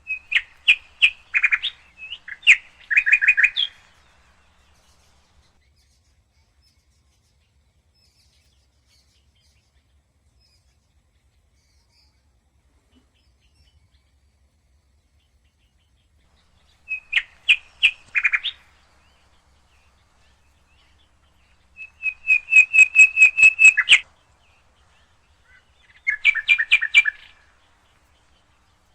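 Rose-ringed parakeet calling in four bouts of rapid, shrill repeated notes, about eight a second, with quiet gaps between them.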